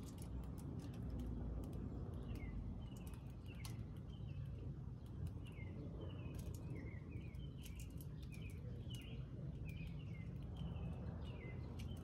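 Small birds at a feeder chirping over and over in short, quick notes, with scattered sharp clicks among them. A low steady rumble of background noise runs underneath.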